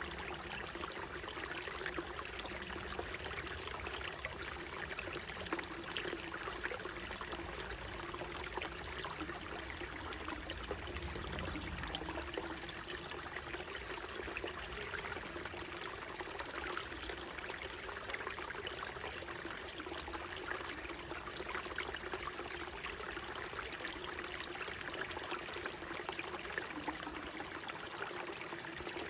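Small mountain stream running, a steady babble and trickle of flowing water.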